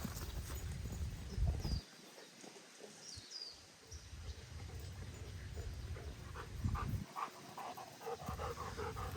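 Faint sounds of a dog, with a low rumble that cuts out twice.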